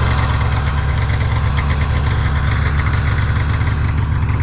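Snowmobile engine running steadily, with a fast, even pulsing low rumble.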